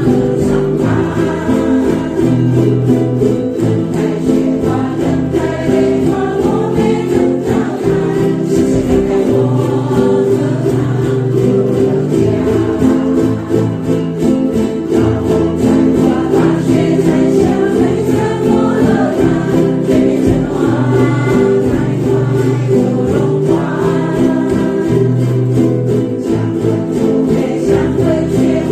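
A group singing a Chinese song together to strummed ukulele accompaniment, with a steady beat.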